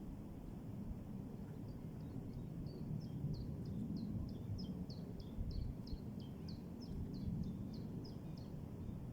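A small songbird singing a long series of short, high, repeated notes, about three a second, starting a couple of seconds in and stopping near the end, over a steady low rumble of outdoor noise.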